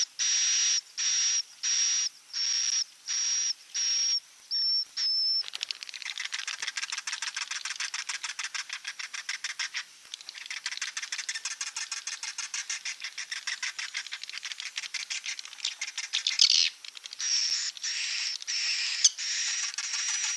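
Swiftlet roosting call ('suara inap'), the recorded lure sound played in swiftlet houses. Evenly spaced high chirps, about two a second, each with a steady whistle; after about five seconds they give way to a fast twittering rattle for some ten seconds, and the spaced chirps come back near the end.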